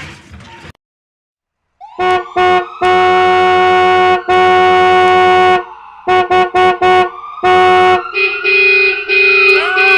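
Train horn sounding loud: three quick short toots, two long blasts, a run of four short toots and a short blast, then a steadier held horn chord with a tone sliding up and down under it. Just before the horn, the last of a crash noise dies away into a moment of silence.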